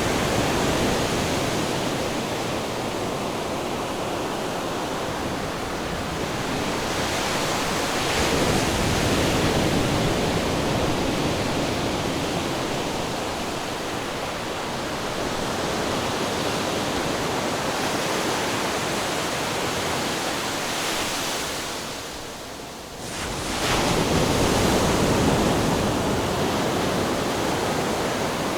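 Ocean surf washing in continuously, swelling with a wave every several seconds, with a brief lull a little past the middle before the next wave builds.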